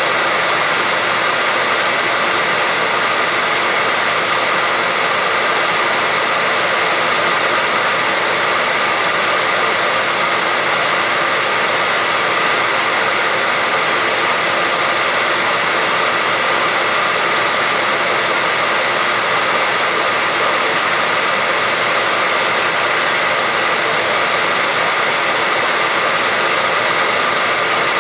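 Hair dryer running steadily: an even, unchanging rush of blown air with a faint motor hum.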